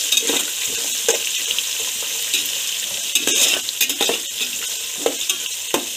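Peanuts, green chillies, onion, garlic and curry leaves sizzling in hot oil in a metal pot, with a steady hiss, while a metal spoon stirs them and scrapes and knocks against the pot now and then.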